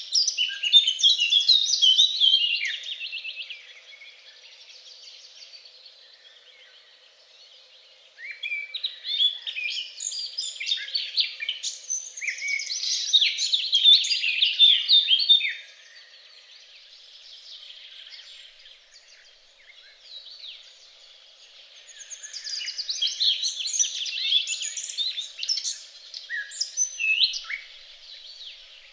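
A songbird singing long, rapid, varied warbling phrases, three stretches of song of several seconds each with short pauses between them.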